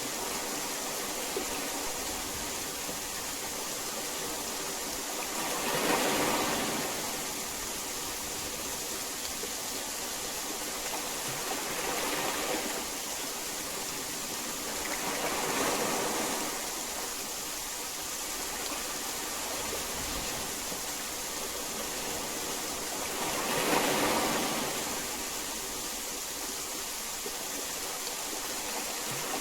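Steady heavy rain hiss that swells louder every several seconds, most strongly three times.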